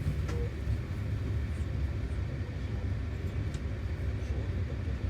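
Steady low rumble of a moving passenger train heard from inside the carriage.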